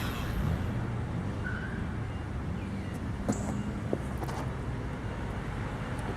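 Steady low rumble of outdoor background noise, with a few faint clicks in the middle.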